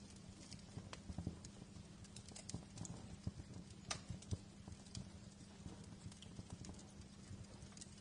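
Wood fire crackling in a fireplace, with frequent irregular small pops and a couple of sharper cracks about four seconds in, over a low steady rumble.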